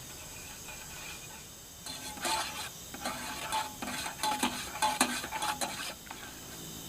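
About four seconds of rapid metallic clinking and scraping, the kind made by a utensil worked against a pot or dish. Under it runs a steady chorus of night insects.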